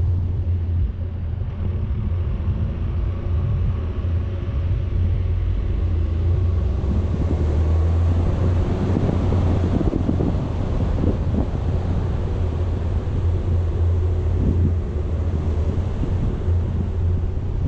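A vehicle driving, with a steady low engine and road rumble and wind buffeting the action camera's microphone, getting a little louder for several seconds in the middle.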